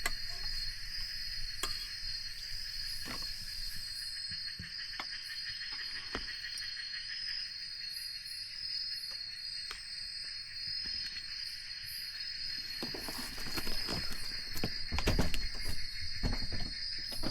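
Steady high-pitched trilling of a chorus of forest insects, with scattered clicks and a cluster of louder knocks and handling sounds near the end.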